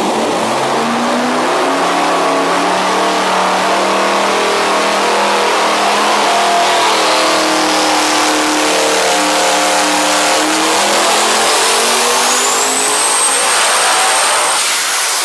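Turbocharged V16 engine of the Devel Sixteen making a full-throttle dyno pull, its pitch climbing steadily for about fourteen seconds. A high whine rises over the second half, and the engine cuts off near the end, its sound dying away.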